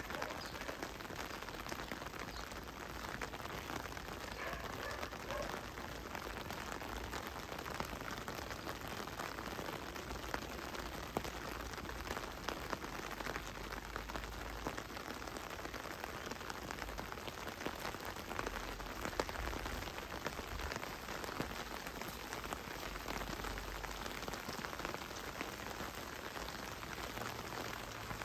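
Heavy rain falling: a steady hiss of many drops, with frequent small sharp drop ticks.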